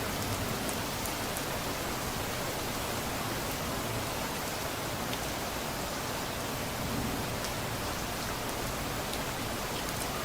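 Steady rain falling, with scattered small drop ticks over an even wash of noise.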